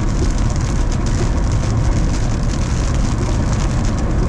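Heavy rain and gusting wind: a steady rushing noise over a deep rumble, as the storm's wrap-around winds arrive.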